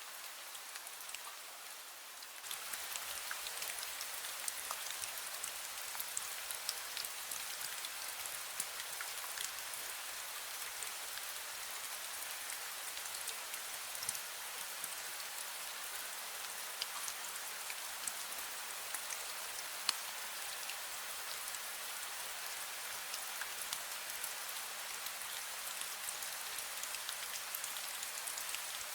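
Light rain falling steadily, a dense patter of small drop ticks on surfaces, stepping up in loudness about two and a half seconds in.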